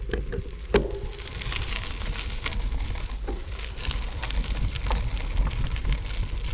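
Gravel bicycle riding along a trail: tyres crunching and crackling irregularly over gravel and twigs, with steady wind rumble on the action-camera microphone.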